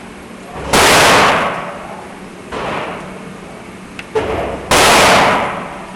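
Gunshots: two loud blasts about four seconds apart, each dying away over about a second, with two fainter bangs between them.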